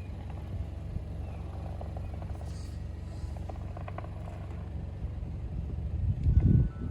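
Car moving slowly, with a steady low engine and tyre rumble that swells louder about six seconds in.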